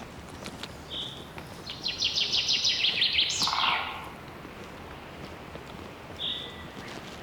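A songbird singing: a short high note, then a loud fast trill that ends in a quick falling slur, and another short note near the end.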